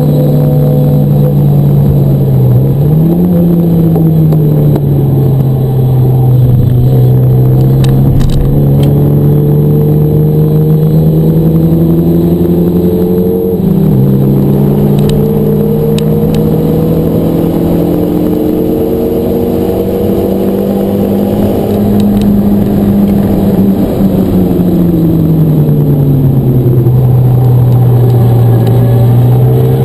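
Renault Mégane RS 250's turbocharged four-cylinder engine heard from inside the cabin, pulling hard on track. The note climbs slowly, drops suddenly at an upshift about halfway, climbs and holds again, then falls away as the driver lifts off and picks up again near the end.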